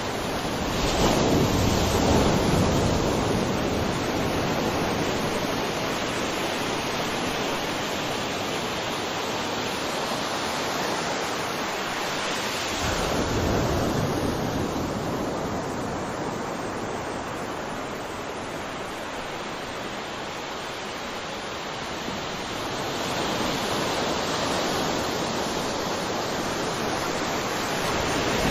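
Ocean waves breaking and washing on a shore, a steady rush of surf that swells with a bigger wave about a second in, another about 13 s in, and a third near the end.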